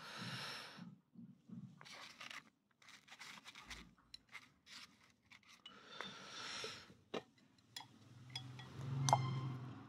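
A person chewing boiled pig trotter close to the microphone: several short, wet, noisy bursts of chewing, with sharp clicks of chopsticks against the dishes in between.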